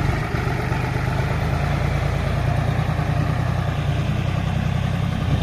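Diesel engine of heavy farm or earthmoving machinery running steadily at a low, even speed.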